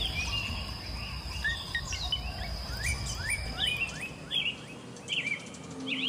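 Birds chirping: a string of short rising calls, over a steady high whine that stops about four seconds in and a low background rumble that fades soon after.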